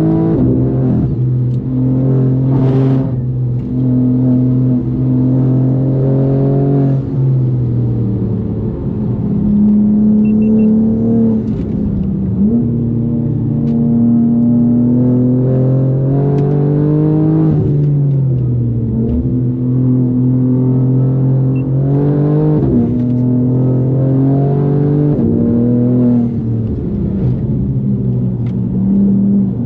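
A tuned BMW M4 G82's twin-turbo inline-six engine is running hard while the car is driven. The engine note holds steady for a few seconds at a time, then steps down and back up several times through gear changes.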